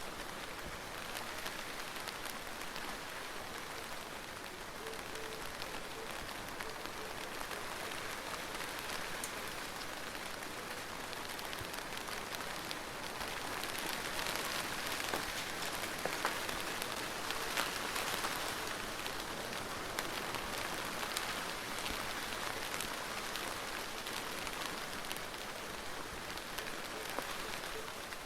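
Steady rain falling, an even hiss with individual drops ticking sharply on a surface. It grows a little louder about halfway through, with a few sharper drop hits.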